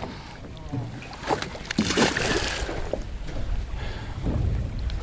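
Wind buffeting the microphone over water moving around a small boat, with a short voice exclamation about two seconds in.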